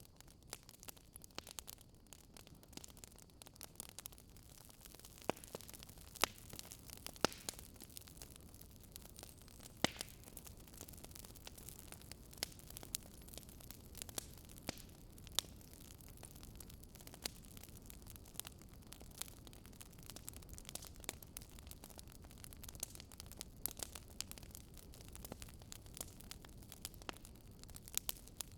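Wood fire crackling in a fireplace: irregular sharp pops and snaps, a few of them louder, over a low, steady rush of the flames.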